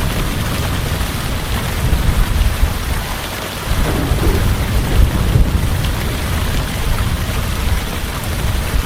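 Heavy, steady rain with a low, rolling rumble of thunder underneath. The rumble eases briefly about three seconds in, then swells again.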